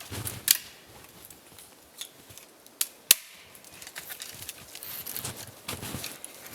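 Dry twigs snapping with sharp, sudden cracks, a few separate breaks with the loudest about three seconds in: the twigs are dry enough to crack.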